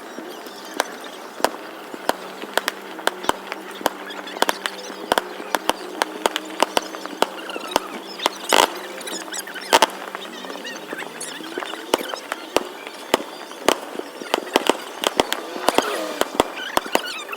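Fireworks going off: a dense, irregular string of sharp bangs and cracks, several a second, with a few louder bangs about halfway through.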